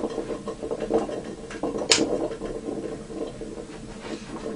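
Small handling ticks and rubs with one sharp click about two seconds in, over a steady hum.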